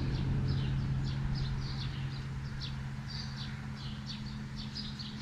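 Small birds chirping, a quick run of short, falling chirps several times a second, over a steady low hum.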